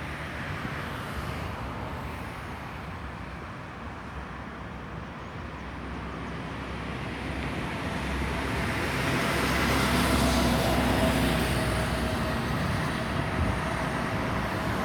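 Boeing 737-800 airliner's CFM56 jet engines on final approach, a roar that builds over several seconds with a faint whine as the aircraft comes closer, then eases slightly near the end.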